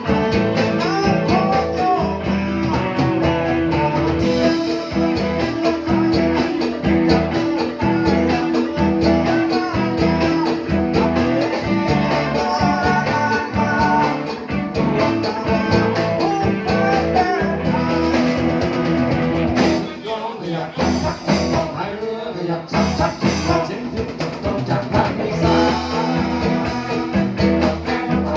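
Live band music led by guitar, with a voice singing. About two-thirds of the way in the band drops to a sparser, quieter passage, then the full band comes back in near the end.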